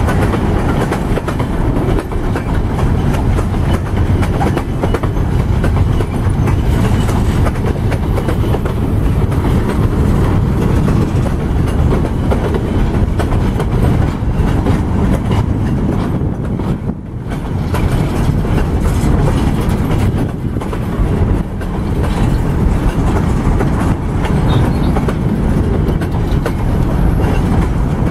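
Loaded freight boxcars rolling past close by: steel wheels clicking over the rail joints over a steady heavy rumble, with a brief lull about two-thirds of the way through.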